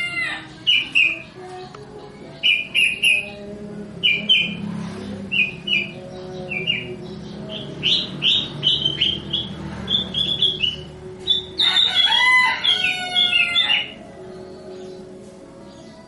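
Sooty-headed bulbul giving short, bright chirping notes in quick groups. About twelve seconds in, a louder, longer call with a rich, bending pitch cuts in for a second or so.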